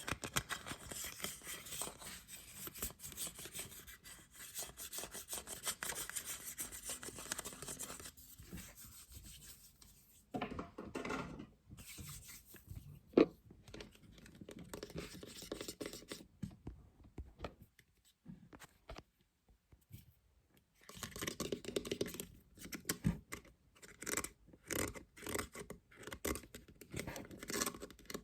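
Scratching and rubbing on a lid, with a single sharp tap about thirteen seconds in. After a pause of a few seconds the scratching returns in quick, separate strokes.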